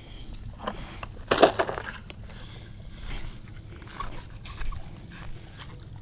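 Scattered knocks and handling noises, the loudest about a second and a half in, over a low steady rumble.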